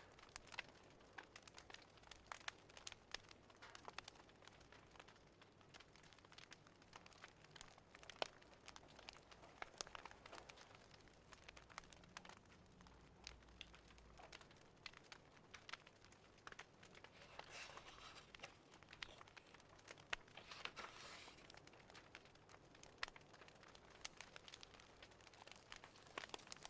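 Fireplace fire crackling: quiet, irregular pops and snaps, with a couple of brief rustling patches in the second half.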